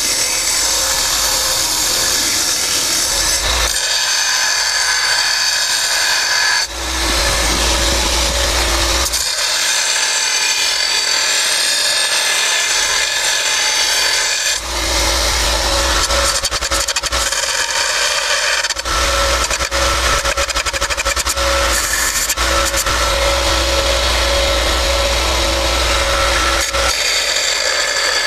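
Belt sander running steadily with a motor whine, grinding a workpiece against the belt in stretches of several seconds.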